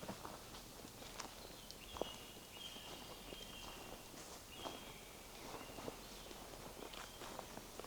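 Footsteps on a forest path, soft crunches and twig snaps at a slow walking pace, with thin, high, drawn-out bird notes in the background.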